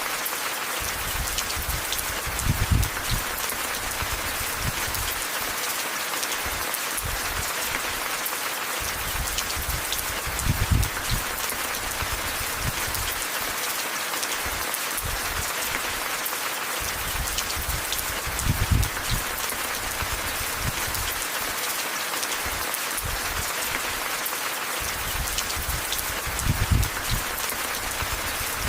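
Steady rain hissing, with individual drops pattering. Brief low rumbles swell up about every eight seconds.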